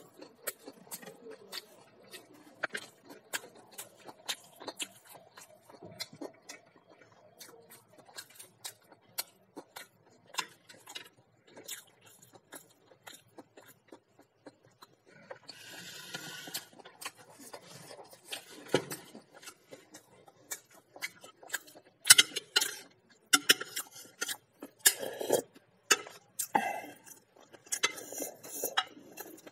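Close-miked eating sounds: chewing and wet mouth clicks, with light taps of utensils on a plate. In the last several seconds a metal spoon clinks and scrapes against a bowl, louder and sharper than the chewing.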